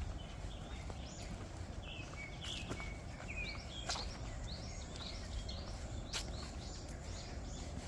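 Small birds chirping over and over in short, high notes, with a few sharp clicks and a steady low rumble underneath.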